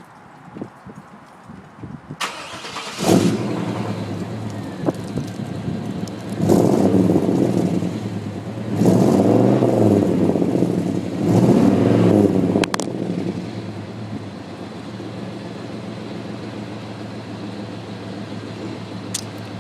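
1995 GMC Yukon's 350 V8 with Magnaflow mufflers cold-starting: the starter cranks briefly about two seconds in and the engine catches. It is then revved three times and settles into a steady idle.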